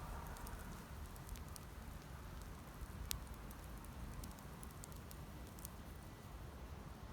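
Wood campfire crackling faintly with scattered small pops and one sharper snap about three seconds in, over a low steady rumble.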